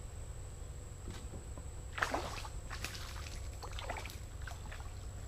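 Water splashing and dripping against a kayak in a string of short sloshes, the first and loudest about two seconds in.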